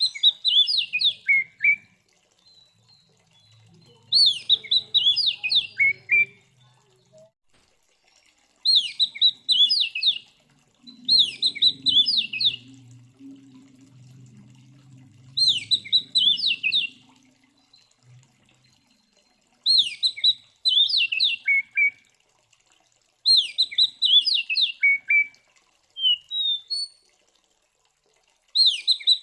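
Oriental magpie-robin (kacer) singing loudly in short, repeated phrases of quick, sharply sweeping whistled notes, a phrase about every three to four seconds. This is the aggressive 'fighting' song that keepers play to rouse other magpie-robins.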